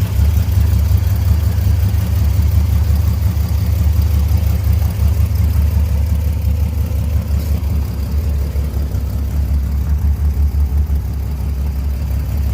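Cold-started Dodge engine idling low, with a steady uneven pulse, still warming up after a −4° start.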